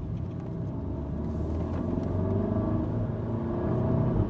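Seat Leon Cupra's engine and road rumble heard inside the cabin as the car pulls along, the engine note climbing slowly as it gains revs.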